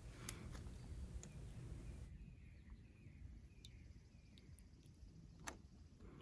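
Near silence: faint outdoor quiet with a few soft bird chirps about two to three seconds in, and a single sharp click near the end.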